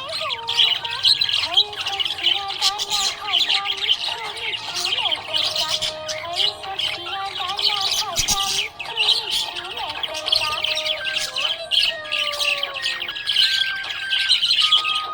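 Budgerigars chirping in a dense, continuous high chatter, with music playing underneath.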